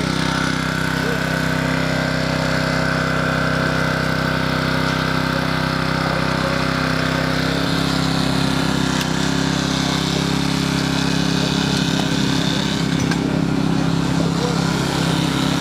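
A fire engine's motor running steadily at a constant pitch. About halfway through, its low note turns rougher and more fluttering.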